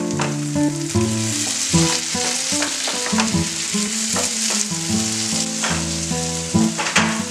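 Potato masala sizzling as it fries in a pan, with a wooden spatula stirring it and scraping against the pan several times. Background music plays underneath.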